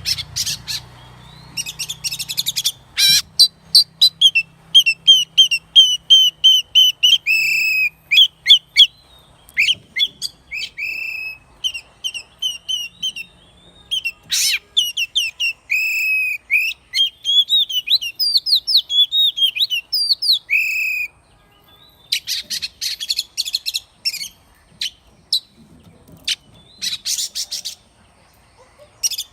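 Oriental magpie-robin singing a long, varied song: clear whistled notes and slurred glides, some repeated several times in quick succession, broken by harsh scratchy chatters near the start and again in the last third.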